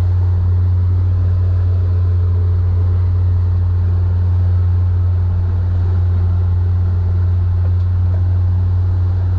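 Small fishing boat's engine running steadily under way, a loud, even low hum, as the boat is turned around to line up for a drift.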